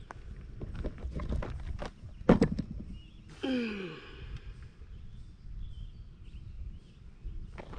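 Knocks and rustling from footsteps and handling on the bank, the loudest knock about two seconds in, then a short falling vocal sound like a sigh.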